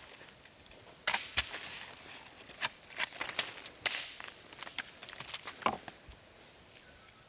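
A run of irregular sharp cracks and clicks for about five seconds, starting about a second in.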